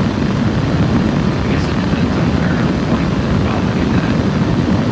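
Inside the cabin of a 1992 Mercedes 300D: its diesel engine idling at a standstill with the climate-control blower running, a steady low rumble under a rush of air.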